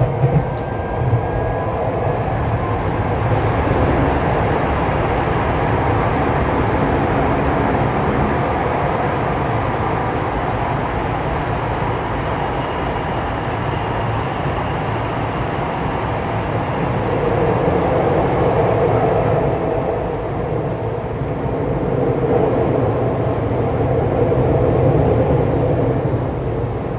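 Saitama Railway 2000 series electric train running, heard from inside the car: a steady rumble of wheels on rail, with a faint motor whine above it. It swells and eases a little, and there are a few sharp knocks about a second in.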